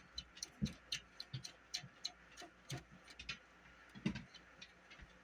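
Irregular light clicks and taps, a few a second, from the parts of an old car cassette deck being handled and worked loose, with a few duller knocks.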